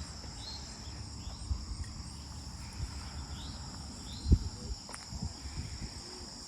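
Steady high-pitched chorus of crickets, with scattered low thumps and rustles and one louder thump about four seconds in.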